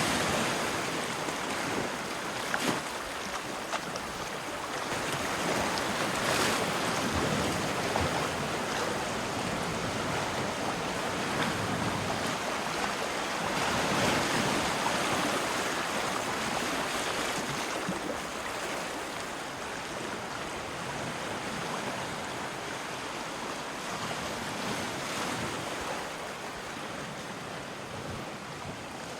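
Sea waves breaking and washing on a shore, the surf swelling and falling every few seconds and growing a little quieter towards the end.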